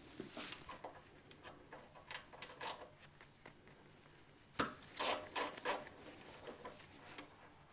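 Hand tools working on metal parts: scraping and rubbing with scattered clinks, and brief clusters of sharper clinks and rattles about two seconds in and again near five seconds.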